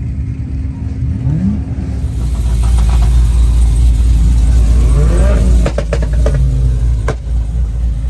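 Performance car engine being revved, its pitch rising about a second in and again around five seconds, over a deep exhaust rumble. A few sharp cracks come near the end.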